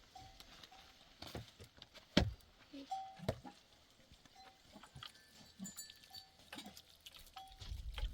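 Livestock about a camp, with short, repeated ringing notes such as animal bells make, and two sharp knocks about two and three seconds in.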